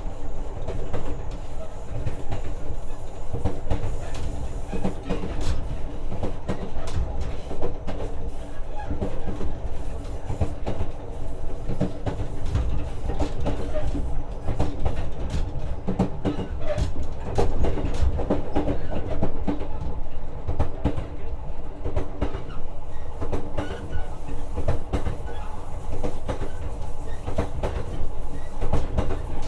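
JR West 125 series electric railcar running at speed, heard from inside the carriage: a steady low rumble with a hum of several steady tones, and the wheels clicking over rail joints again and again.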